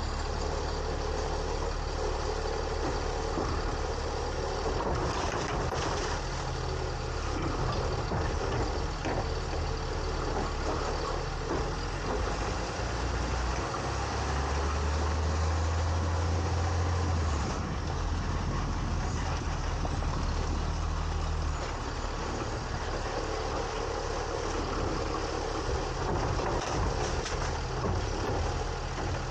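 A 2022 Autocar ACX garbage truck with a New Way Sidewinder body, its diesel engine running steadily with mechanical noise over it. The engine note rises about 14 seconds in, drops a little about 17 seconds in, and settles back down about 21 seconds in.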